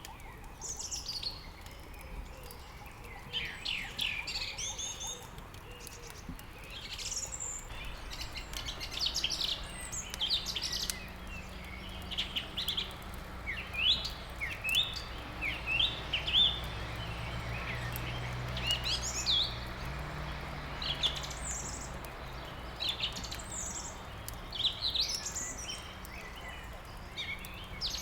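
Several songbirds chirping and singing, short whistled phrases and trills following one another throughout. A low steady hum sits underneath from about nine seconds in until about twenty-four seconds.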